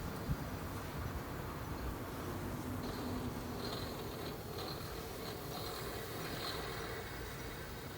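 Toshiba RAS-5066AD air conditioner running: a steady hum and airflow, with a faint high-pitched whine that comes and goes several times.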